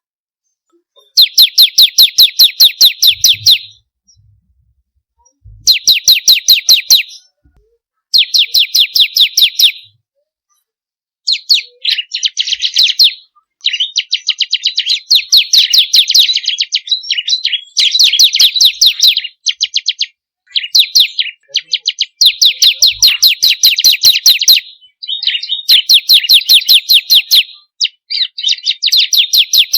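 Bar-winged prinia (ciblek) singing in loud phrases of rapid, evenly repeated sharp notes, each phrase about two seconds long. The phrases are separated by short pauses at first and come almost without a break from about a third of the way in.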